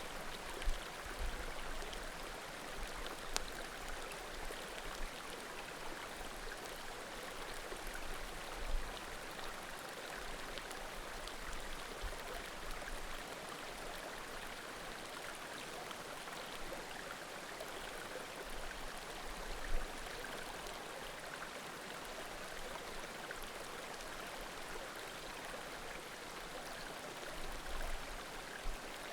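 A small mountain creek flowing steadily, with a few short sharp pops from firewood burning in a bonfire scattered through it.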